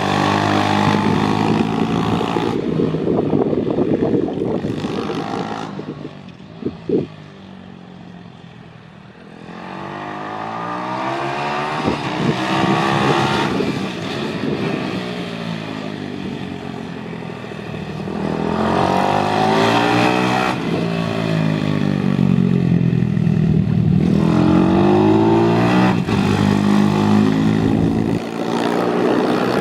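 Pit bike's single-cylinder engine revving hard and falling back again and again as it is ridden round a track, the pitch climbing through the gears and dropping off into corners. It goes quieter for a few seconds about six seconds in, with a short sharp sound near seven seconds.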